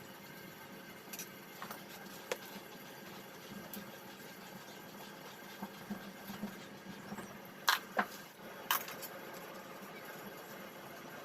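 Faint background with a few scattered sharp clicks and knocks, the loudest three close together about eight seconds in.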